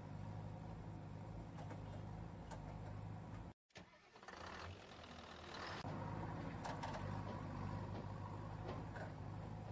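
Steady motor hum, cut off abruptly for a moment just over a third of the way in, then coming back and growing louder about two-thirds of the way through.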